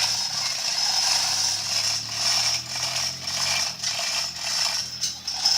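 A ratchet-type mechanism clicking and rattling steadily, a continuous mechanical clatter.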